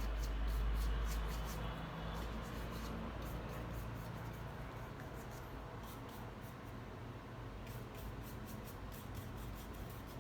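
Paintbrush strokes and dabs on a painting, heard as many soft short ticks that thin out in the middle and pick up again near the end, over a low hum that is strongest in the first couple of seconds.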